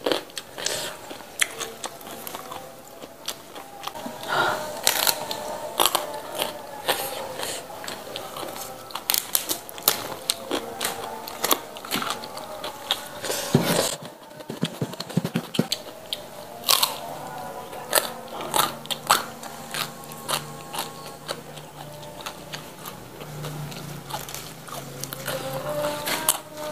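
Close-up chewing of raw leafy greens and their stalks, with many sharp crunches as they are bitten and chewed.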